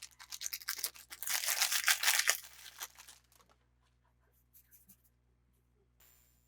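Toy packaging being torn open, a dense crackling rustle lasting about three seconds that is loudest in the middle, followed by a few faint ticks.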